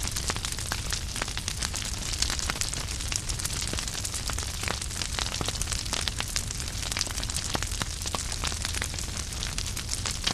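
Wood fire burning in a fireplace: dense crackling and popping from the burning logs, with a steady hiss and a low rumble of the flames underneath.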